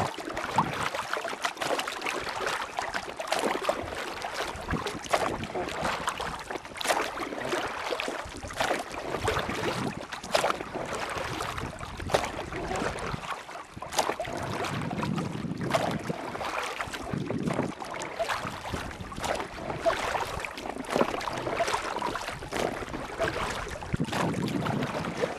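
Steady rushing of river water with irregular splashes and clicks throughout.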